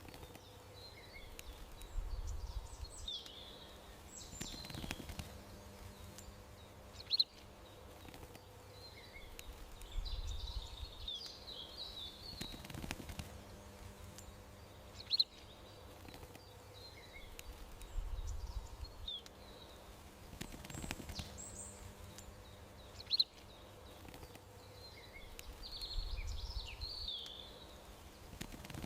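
Garden bird ambience: a single short, sharp bird chirp and a longer twittering bird phrase, repeating about every eight seconds as a loop, over a faint steady hum with a low rumble in each cycle.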